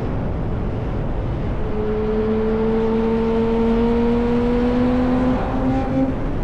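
Yamaha R1 sport bike running through an SC-Project exhaust under a steady rush of riding wind. About two seconds in, an engine tone comes up and climbs slowly in pitch as the bike pulls, then breaks off about six seconds in.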